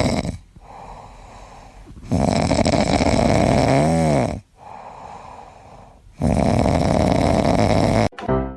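A pet snoring loudly: three long rasping snores of about two seconds each with quieter breaths between them, the middle snore carrying a brief whistling tone that rises and falls.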